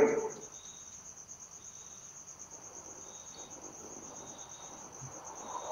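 Crickets chirping: a steady, rapid, high-pitched pulsing trill, with a fainter on-and-off chirp just below it.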